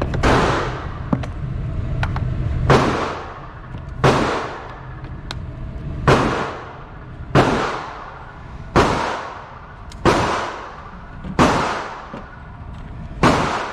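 9mm pistol fired in slow, steady succession: about nine shots roughly one every one and a half seconds, each ringing out with a short echo.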